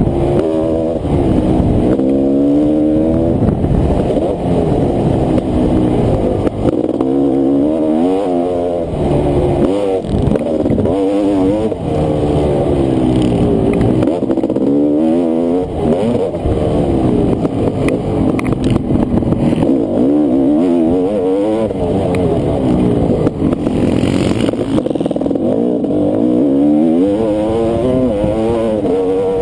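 Honda CR500 two-stroke single-cylinder motocross engine under hard riding, revving up and dropping back over and over, its pitch climbing and falling every second or two.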